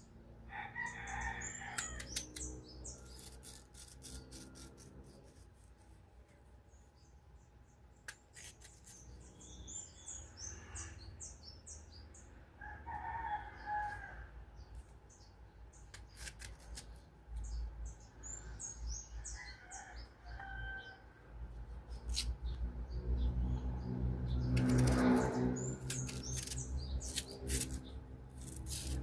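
A knife peeling and slicing firm, crunchy green mango, giving many sharp crisp cuts and crackles. Chickens call in the background, with a longer, louder call near the end.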